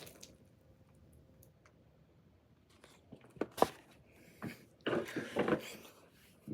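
MRE pouch packaging being handled, crinkling and rustling in a few short bursts about halfway in after a faint stretch, as the entree is taken out of its heater pouch.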